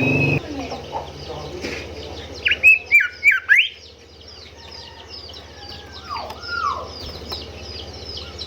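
Golden whistler singing: a burst of four loud, sharply slurred whistles about two and a half seconds in, then two lower down-slurred notes a few seconds later. Under it runs a steady series of thin, high repeated chirps.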